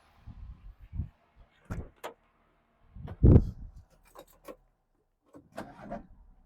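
A run of separate knocks and clicks with one loud, low thump a little past halfway through, typical of someone working around a car, such as a door or panel being moved and shut.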